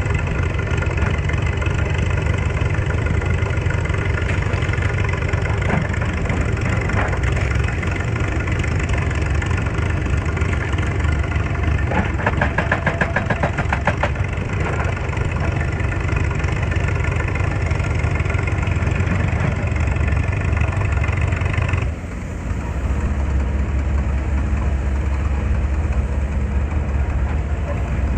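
Excavator's diesel engine running steadily. About twelve seconds in comes a rapid rattling clank lasting about two seconds. Around twenty-two seconds in the sound changes abruptly: the higher part drops away, leaving a deeper drone.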